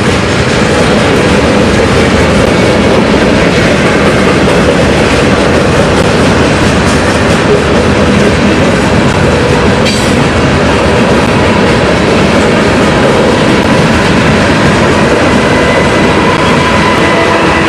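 A train running on the track, a loud, steady noise of rolling wheels and cars that holds throughout.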